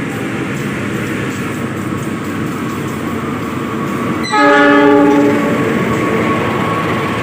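A train passing through a station without stopping, its wheels and running gear rumbling steadily. A single loud horn blast sounds about four seconds in and lasts about a second.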